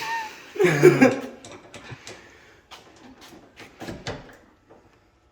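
A short vocal outburst, like a laugh or grunt, about a second in, followed by a series of scattered light clicks and knocks.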